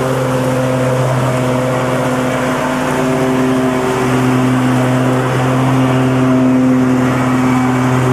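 Lawnmower engine running steadily at a constant speed, a continuous drone with a slight rise and fall in loudness.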